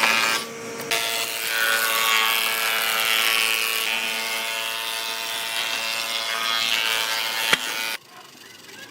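Electric power tool running steadily on wood, with a constant motor whine over a rough hiss, dipping briefly just under a second in and stopping abruptly near the end.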